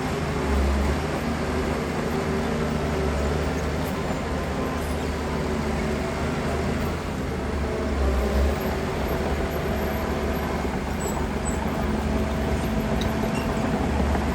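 Heavy earthmoving machinery's diesel engine running steadily with a low drone, swelling briefly a few times.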